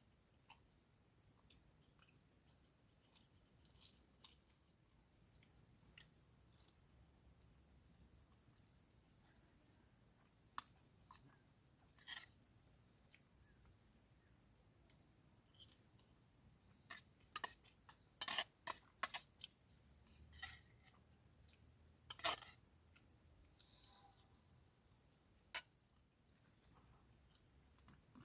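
Cricket chirping: a faint, high, rapid pulsed trill repeated in short runs. Scattered sharp clicks and knocks come and go, most of them in the second half.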